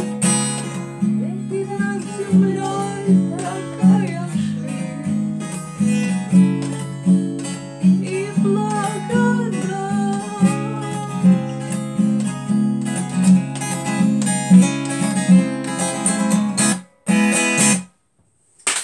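Acoustic guitar strummed in a steady rhythm as a song is played. It breaks off about seventeen seconds in, comes back briefly, then stops.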